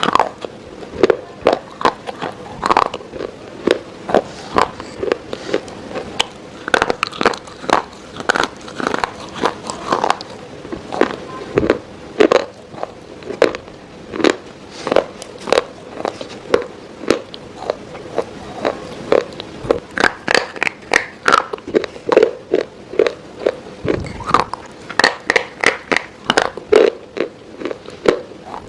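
Crisp, crunchy food being bitten and chewed close to the microphone, with a steady run of sharp crunches about two to three times a second.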